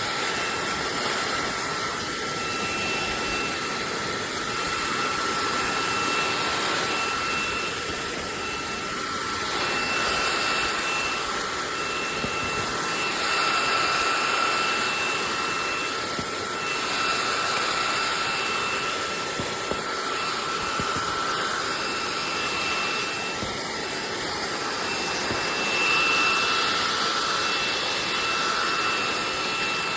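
SunSare X11 cordless stick vacuum running steadily: a rush of air with a thin, high motor whine, the level gently swelling and easing every few seconds.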